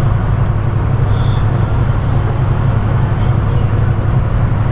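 Steady low drone of a semi-truck's diesel engine and road noise heard inside the cab while cruising on the highway.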